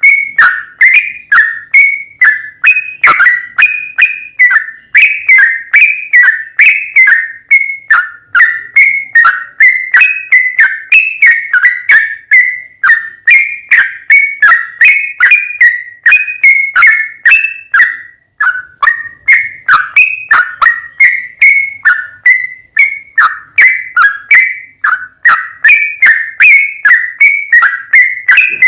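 Yellow-vented bulbul (trucukan) singing a long, unbroken run of short whistled notes, about two to three a second, each bending in pitch around a middle-high register.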